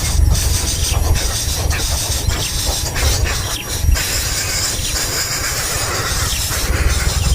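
A loud, unsteady low rumble under a steady high hiss, with short thin squeals scattered through it.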